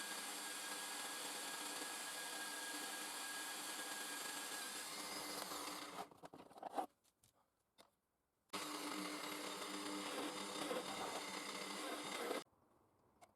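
Home-built belt grinder running, a steady motor and belt noise with a whine in it. It dies away about six seconds in, then starts again abruptly a couple of seconds later and cuts off suddenly near the end.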